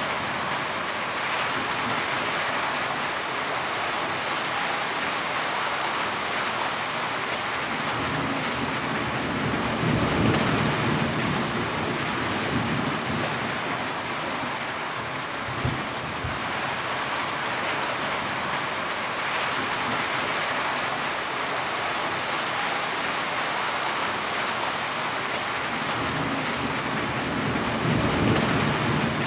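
Steady heavy rain falling, with low rumbles of thunder rolling in about ten seconds in and again near the end.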